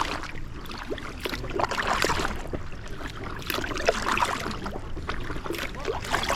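Inflatable kayak being paddled on a river: the paddle blades dip and splash with each stroke, about every second or two, over a low wind rumble on the microphone.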